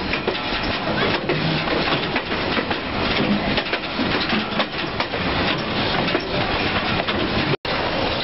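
Moving passenger train heard from the gap between two coaches: steady rolling noise of the wheels on the rails, with an irregular clatter of clicks and rattles from the car ends and couplers. The sound cuts out for an instant near the end and comes back as a steadier rolling noise.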